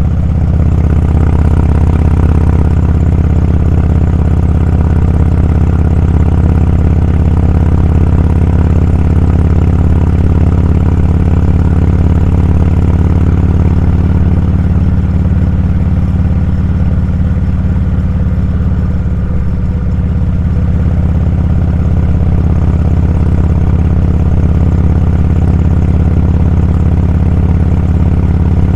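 Motorcycle engine running at a steady cruise, a constant low rumble with no changes in pace.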